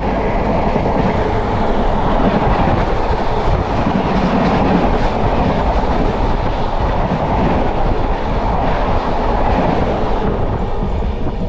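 A train passing close alongside on the next track, heard from an open coach window: a loud, steady rush with wheel clatter.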